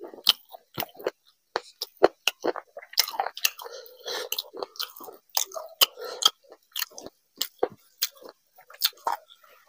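Close-up mouth sounds of eating soft vegetable khichdi: chewing with many irregular wet lip smacks and clicks. Fingers squish and mix the rice on the plate.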